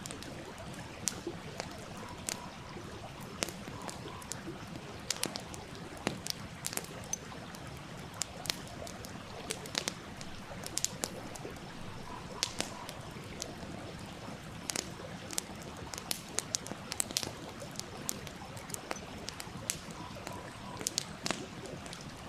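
Wood campfire crackling with irregular sharp pops and snaps, over the steady rush of a stream.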